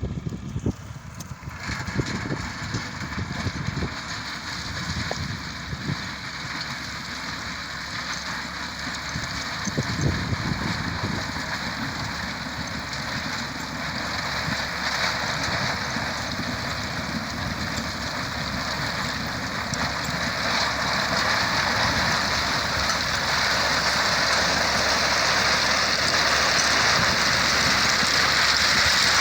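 Heavy road-construction machinery running, a low engine rumble under a steady rushing hiss that grows louder in the last third.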